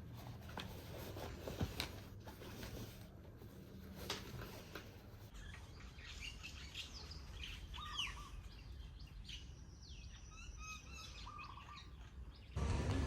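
Birds chirping faintly, with a cluster of short calls in the middle, over a low steady hum and a few soft taps. A louder sound cuts in just before the end.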